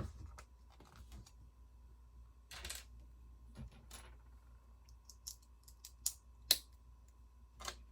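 Plastic Lego bricks clicking and rattling as pieces are handled and pressed into place: scattered sharp clicks with a few short rustles, the loudest click about six and a half seconds in.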